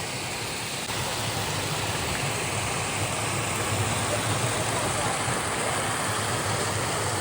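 Steady rush of flowing water from a monsoon waterfall or stream, getting a little louder about a second in.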